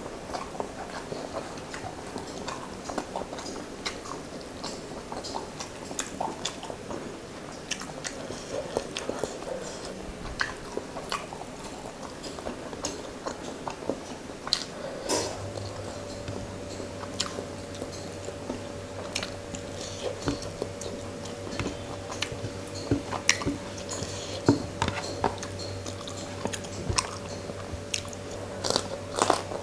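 Close-miked chewing and mouth sounds of someone eating rice and fish curry by hand: a continual string of short wet clicks and smacks.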